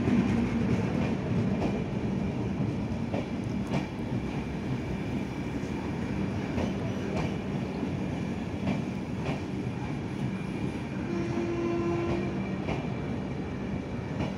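Express train's LHB passenger coaches rolling past along a platform: a steady rumble and hum, with wheels clicking over rail joints, often in quick pairs. A brief tone sounds about three quarters of the way through.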